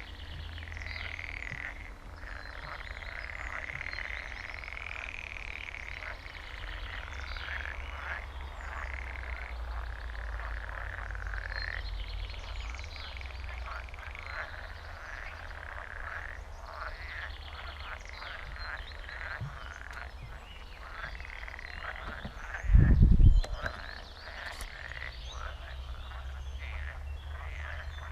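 A dense chorus of many frogs croaking together without a break, their calls overlapping into a continuous rattling din. A brief, loud, low thump stands out about three-quarters of the way through.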